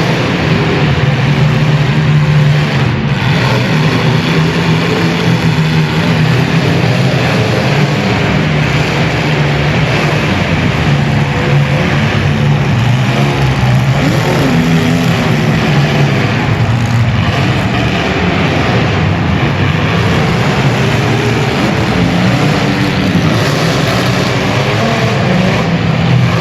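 Several compact cars' engines running and revving together at a steady, loud level.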